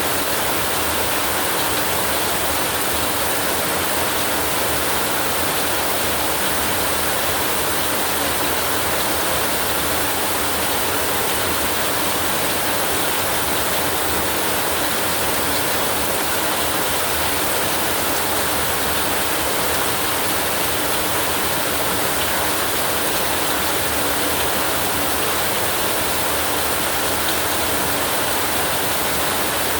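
Steady rain, an even unbroken hiss with no thunder or changes in level.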